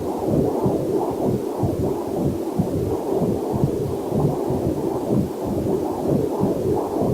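Fetal Doppler heart monitor sounds: a quick, steady train of whooshing heartbeat pulses, dull and low-pitched.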